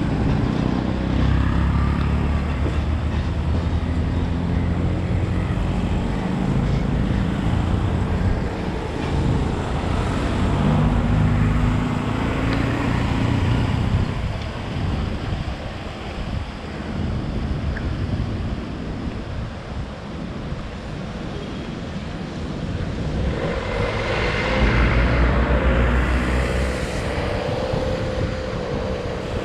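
Diesel locomotive engine running, a low steady drone that is strong at first, weakens through the middle, and builds again near the end with a rush of wider noise.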